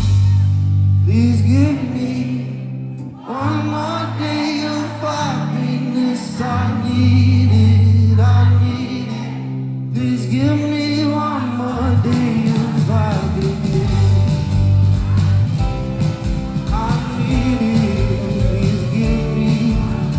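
Live pop concert music: a man singing a slow song over long sustained bass notes. A beat comes in about two-thirds of the way through.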